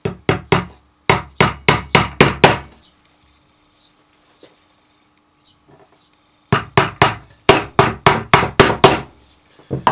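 Small hammer tapping gimp nails into the top bar of a wooden beehive frame. There are two quick runs of sharp taps, about ten each, a few seconds apart, then one last tap.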